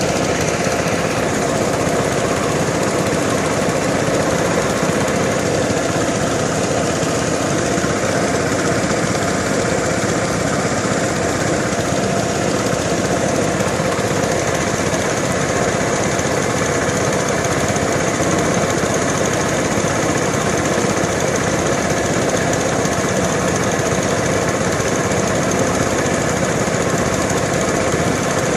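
An engine running steadily at one speed, with no change in pitch.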